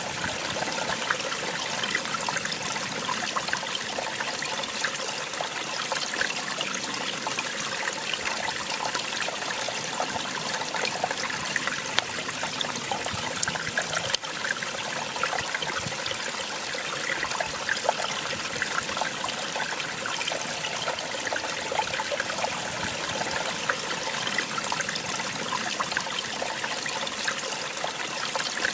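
Small waterfall splashing and trickling steadily, a constant rush of falling water with fine splashes. There is one brief click about halfway through.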